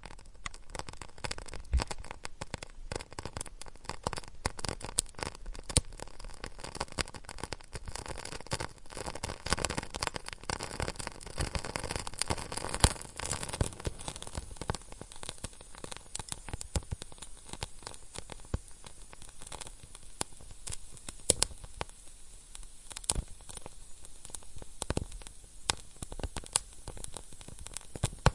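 Fire burning in a fireplace, crackling: a dense run of small crackles over a soft hiss, with louder pops scattered through, the sharpest about 13 s and 21 s in.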